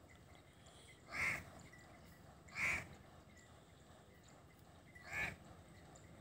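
A bird calling three times, short calls about a second and a half and then two and a half seconds apart, over a faint steady background.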